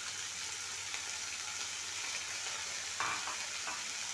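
Freshly added diced potatoes sizzling in hot oil in a kadai: a steady frying hiss, with a single knock about three seconds in.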